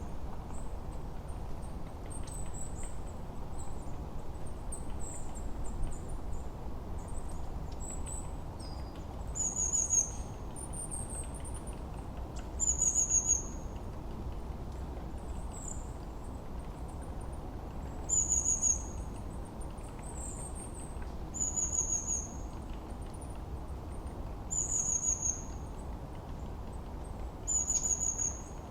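Forest birdsong: one bird repeats a short, high, falling whistle every few seconds, with fainter high chirps from other birds, over a steady low wind rush.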